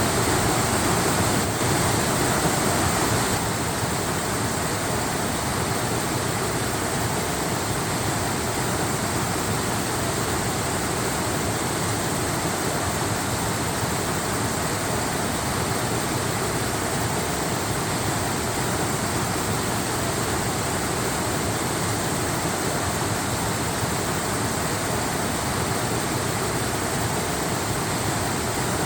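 Waterfall rushing, a steady even wash of water noise that steps down slightly in level a few seconds in.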